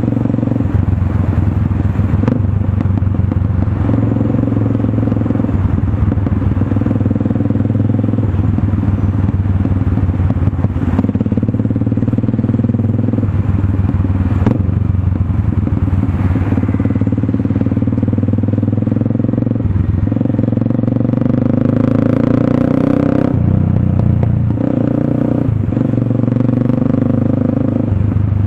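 Motorstar Cafe 400 single-cylinder engine running through an SC Project slip-on exhaust, the exhaust note dipping briefly every few seconds.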